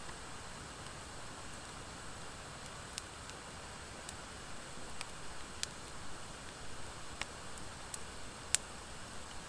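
Wood fire burning in a fire pit, driftwood mixed with dry hardwood logs: scattered sharp crackling pops every second or two over a steady soft hiss, the loudest pop near the end.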